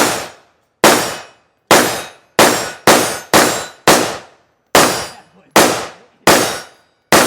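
Gunfire: about eleven shots from a firearm fired in fairly quick, uneven succession, each crack dying away briefly after it.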